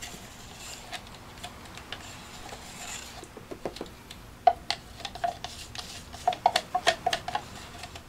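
Stir stick clicking and scraping against a plastic cup as the last of the white acrylic paint is worked out of it. Scattered taps start about three seconds in and come several a second in the second half.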